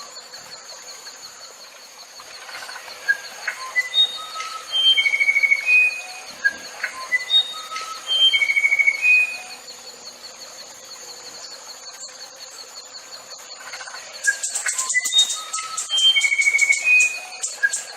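A songbird singing a phrase of clear whistled notes at changing pitches with a short buzzy trill, repeated several times with pauses between. A steady high tone runs beneath, and a quick run of rapid high pulses comes near the end.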